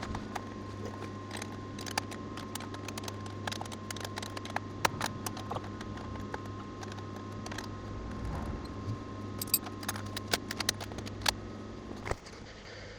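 Scattered metallic clinks and taps of tools and metal parts being handled, over a steady electrical hum that cuts out about a second before the end.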